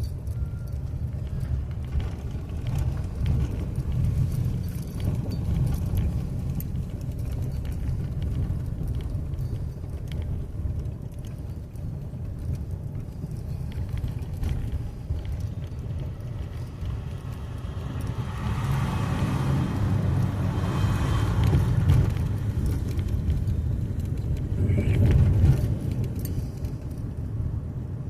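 A car rolling slowly over a bumpy surface: a steady low rumble from the engine and tyres, with light rattles. It swells louder about two-thirds of the way through and again briefly near the end.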